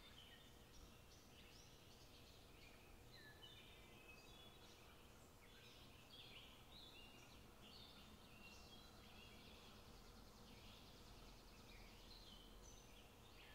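Faint chirping and twittering of many small birds, short quick notes overlapping one another without a break, over a low steady hiss.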